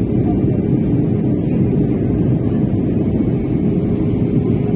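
Steady roar of a passenger airliner in flight heard from inside the cabin: engine and airflow noise, deep and even, with a constant hum running through it.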